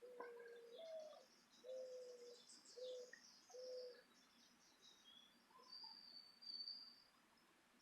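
Faint dove cooing: one long low coo that lifts in pitch at its end, then three shorter, even coos. Small birds chirp and twitter thinly at the same time.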